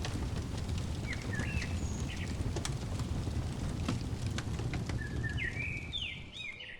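Wood fire crackling, with a steady low rumble of flames and scattered sharp pops. Short bird chirps sound a little over a second in and again near the end, and the sound fades down at the very end.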